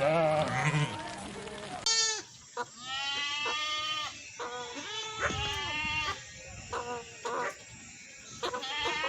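Goats bleating: many short, wavering calls one after another, some overlapping. The first two seconds hold a lower call from a different recording.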